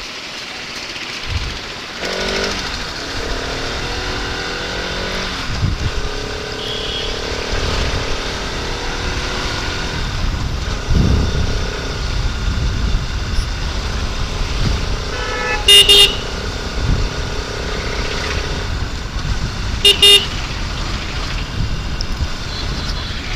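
Motorcycle engine running while riding, with wind rumble on the mic and its pitch climbing a few times in the first seconds as the bike speeds up. A vehicle horn honks twice in short loud blasts, the second about four seconds after the first.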